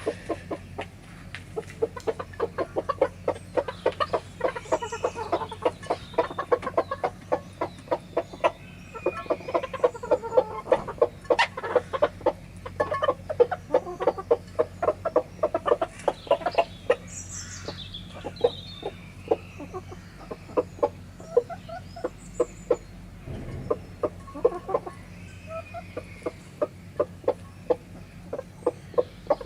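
Chickens feeding: a dense run of quick sharp taps from beaks pecking at food, with soft clucking throughout and a few higher calls about halfway through.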